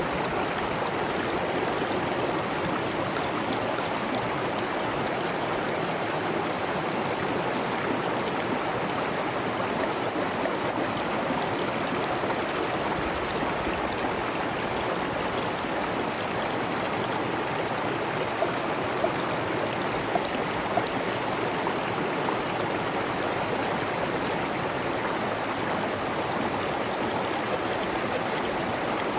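Stream water flowing and trickling steadily, with a few faint splashes.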